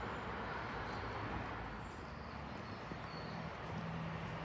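Distant intercity passenger train approaching, a steady rumble of wheels on rail with a low hum that joins about three seconds in.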